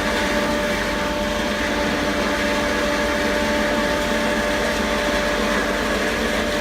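Pillow-stuffing vacuum blower machine running steadily: a constant hum with a few held tones over an even rush of air.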